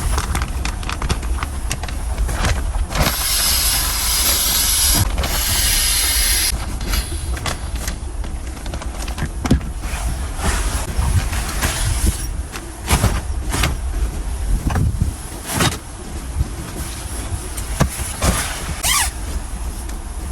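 Strong winter wind buffeting with a steady low rumble, broken by scattered knocks and scrapes. A loud hiss sets in about three seconds in and stops after about three seconds, and a short squeak comes near the end.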